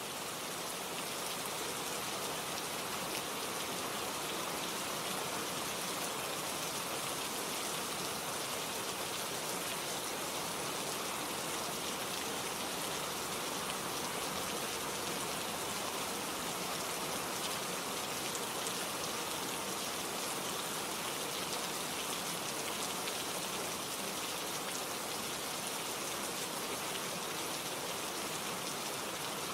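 Steady rain falling: an even hiss with a fine patter of drops, swelling up over the first second or two and then holding level.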